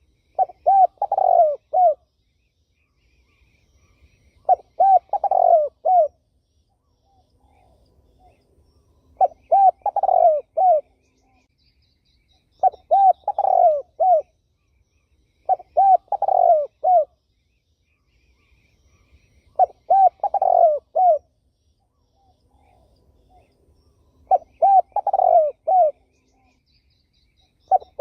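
Spotted dove cooing: a phrase of four or five coos, repeated about seven times at intervals of a few seconds. Faint chirps of small birds sound between the phrases.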